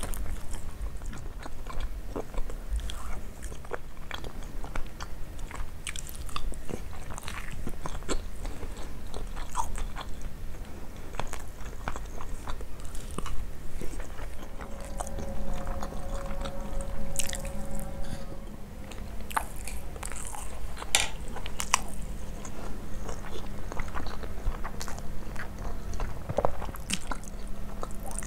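Close-miked chewing and biting of grilled chicken and basmati rice, with irregular small crunches and wet mouth clicks.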